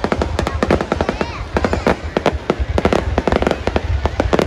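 Fireworks display: aerial shells bursting in a rapid, overlapping string of bangs and crackles, several a second, over a steady low rumble.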